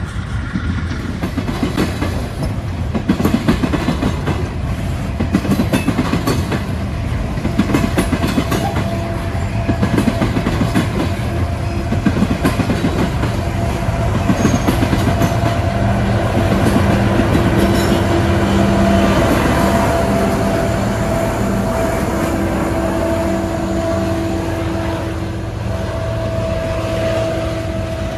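Loaded coal hopper cars of a CSX freight train rolling across a railroad diamond crossing, the wheels banging over the crossing in fast, clattering impacts that are heaviest in the first ten seconds or so. From about halfway through, steady tones ring over the clatter.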